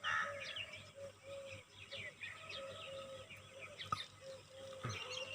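Several small birds chirping and twittering in quick, overlapping calls, with a low tone that comes and goes underneath and a single sharp click about four seconds in.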